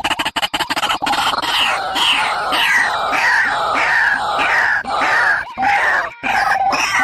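Bird calls: a fast rattle of clicks for about the first second, then loud calls slurring downward in pitch, repeated about twice a second, with a few brief breaks near the end.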